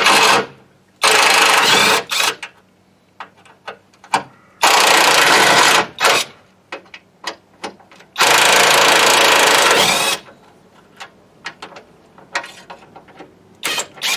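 A power tool runs in four bursts, each about one to two seconds long, undoing the van's front bumper bolts. There are small clicks and knocks between the bursts.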